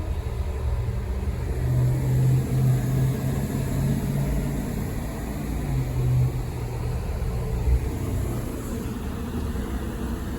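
Steady machine hum with a low drone that swells for a few seconds, then settles, over a steady rushing noise.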